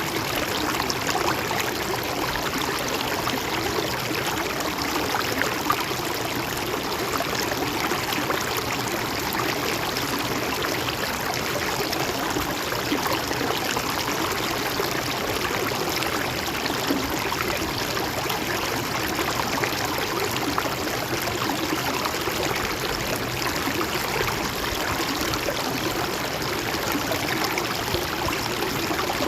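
Shallow stream flowing steadily over rocks, an even rushing with a trickling, gurgling texture.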